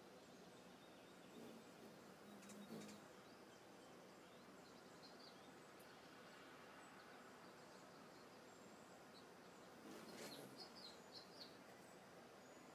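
Quiet outdoor ambience with a few faint, short, high bird chirps, most of them in a cluster near the end. A brief thump comes about two and a half seconds in.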